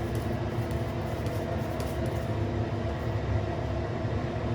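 Steady low rumble with a faint steady hum, and a few faint ticks in the first two seconds.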